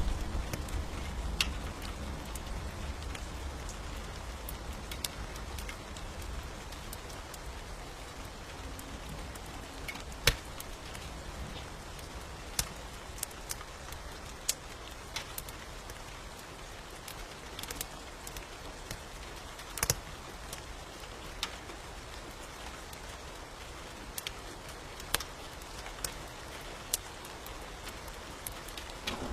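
Steady rain with scattered sharp crackling pops from a wood fire in a fireplace. A low rumble of thunder dies away over the first few seconds.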